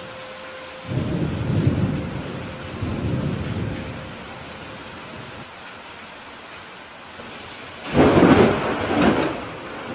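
Steady rain with rolling thunder: low rumbles about a second in and again around three seconds, then a louder, sharper thunderclap near the end.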